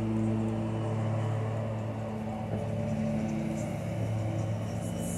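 A steady low machine hum at one unchanging pitch.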